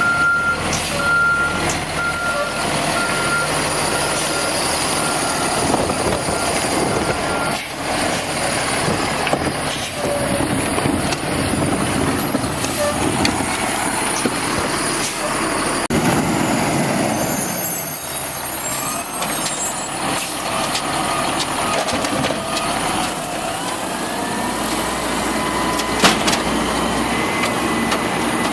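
Volvo Xpeditor garbage truck with an Amrep automated side loader running, its backup alarm beeping about once a second and stopping about seven seconds in. Engine and mechanical noise carry on after that, with a rising whine later on.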